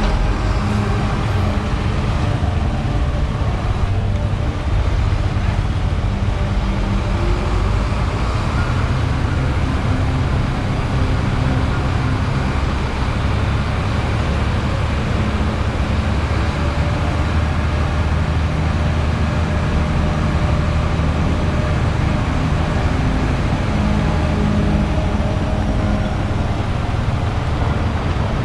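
A motor vehicle running steadily: a low engine hum with road noise.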